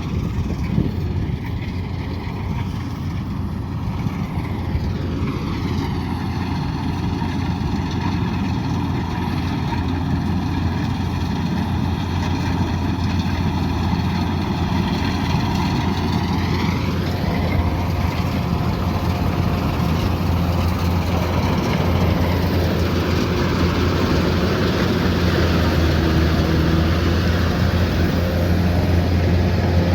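Kubota DC108X combine harvester engine running steadily with a low hum, with a slow hollow sweep in its tone about a third of the way through.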